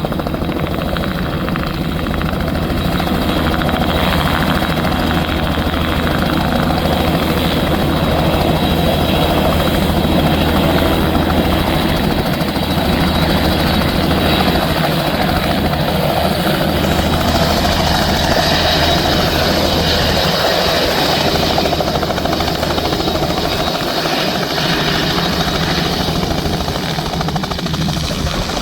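Helicopter engine and rotor running, loud and steady, with a hissier upper edge coming in about halfway through.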